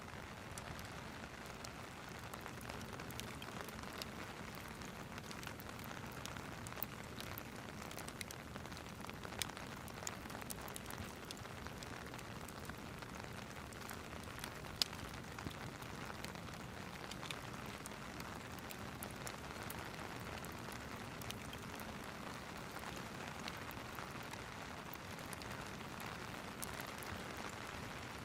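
Steady rain with the occasional sharp pop of a crackling wood fire.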